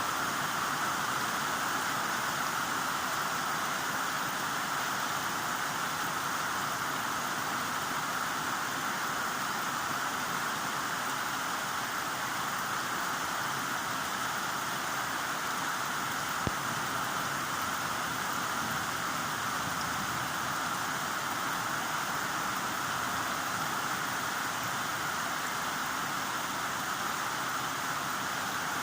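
Heavy rain falling steadily, an even continuous hiss, with a single brief tick about halfway through.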